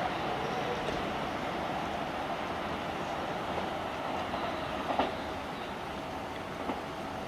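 Keisei 3000 series electric train running on the rails, its sound slowly fading, with a sharp knock about five seconds in and a lighter one shortly after.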